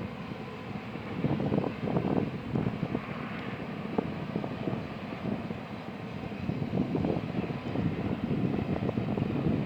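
Union Pacific intermodal freight train rumbling steadily, with wind buffeting the microphone in uneven gusts that swell twice.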